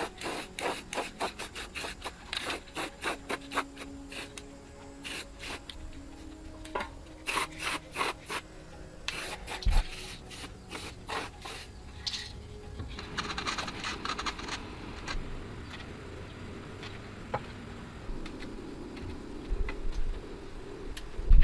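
Rubbing and scraping with many short clicks and knocks, which thin out after about twelve seconds into a steadier hiss.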